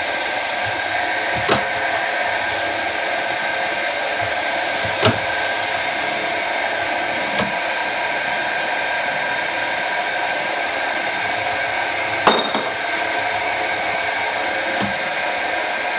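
A lathe running steadily with a whine made of several held tones. A high hiss over it cuts off about six seconds in, and a handful of sharp clicks or knocks come at intervals, the loudest about twelve seconds in.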